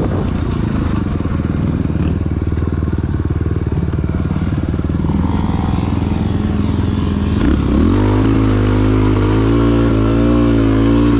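Dirt bike engine running hard while riding. About seven and a half seconds in, the revs climb and then rise and fall unevenly as the throttle works.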